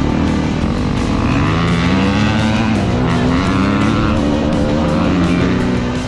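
Dirt bike engine revving up and down, its pitch rising and falling, with rock music playing underneath.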